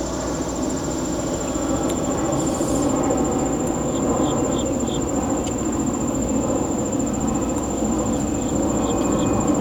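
An insect trilling steadily at a high pitch over a loud, even low rushing noise, with a few short chirps around the middle and again near the end and occasional faint clicks.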